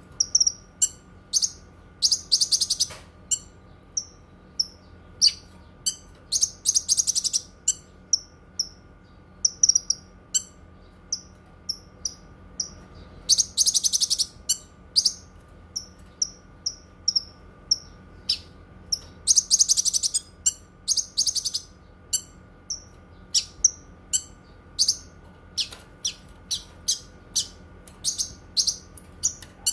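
Cucak kinoi songbird singing: sharp, high chirps repeated about once or twice a second, broken several times by rapid trilled bursts. A faint steady hum sits underneath.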